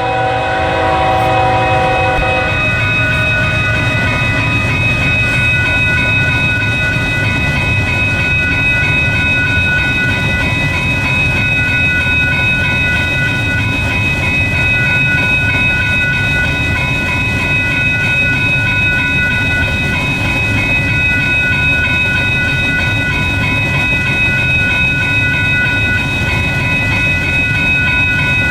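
A train passing close by, with steady rumbling and rolling noise from its wheels and cars. The tail of its horn fades out about two seconds in, and several steady high-pitched ringing tones carry on above the rumble.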